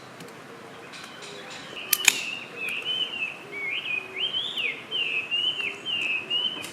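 A songbird singing a continuous, varied warbling song that starts about two seconds in, just after two sharp clicks, and cuts off at the end.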